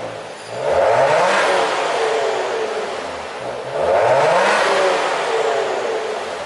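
Maserati Ghibli engine revved twice through a tuned exhaust fitted with a Techtec variable valve module. Each rev climbs quickly, then falls back slowly to a steady running note.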